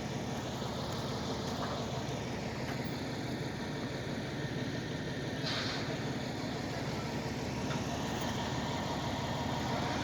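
An engine idling steadily, with a short hiss about five and a half seconds in.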